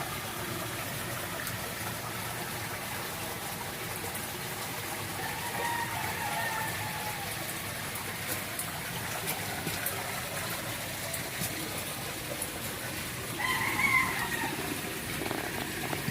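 Two drawn-out bird calls, the first about five seconds in and a louder one near the end, over a steady rush of running water.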